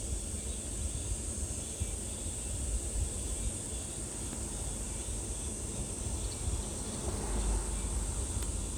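Steady high-pitched buzzing of insects, unbroken throughout, over a low, uneven rumble.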